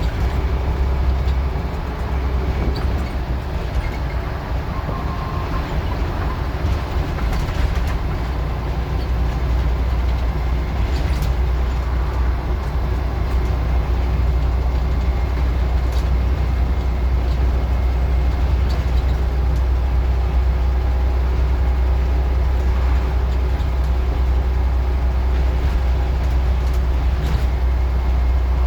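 Scania N94UD OmniDecka double-decker bus's five-cylinder diesel engine being worked hard as the bus is driven: a steady low drone with road noise and a few brief clicks.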